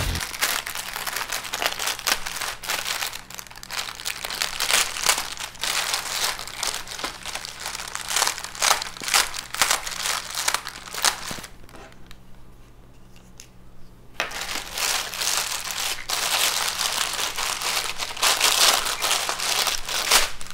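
Packaging being crinkled and rustled in the hands while a parcel is unwrapped, dense irregular crackles with a short lull partway through.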